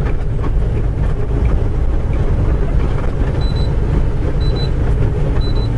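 Semi truck's diesel engine and road noise heard from inside the cab while driving at highway speed, a steady low rumble. A faint high beep repeats about once a second from about three and a half seconds in.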